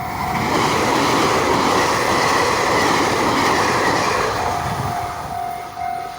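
Relay Kamome limited express train passing through a railway level crossing: a loud rush of wheel and rail noise swells and then fades after about four seconds. A level-crossing warning bell keeps ringing in a steady pulse, coming through again as the train noise dies away.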